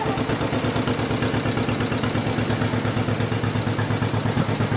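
1955 John Deere 40S tractor's two-cylinder engine running steadily under load in reverse, with an even, regular pulsing exhaust beat.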